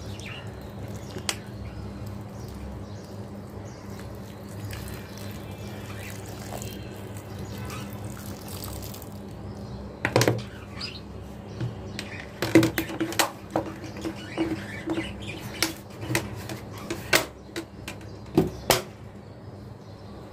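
Budgerigars chirping and squawking in short, sharp calls that come thick from about halfway through, over a steady low hum.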